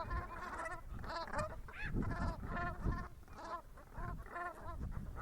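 A flock of Atlantic Brant geese calling, many short, overlapping calls in a continuous chorus.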